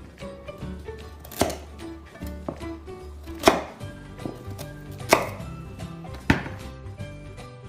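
Kitchen knife chopping through carrots onto a wooden cutting board: four sharp chops, one to two seconds apart, over soft background music.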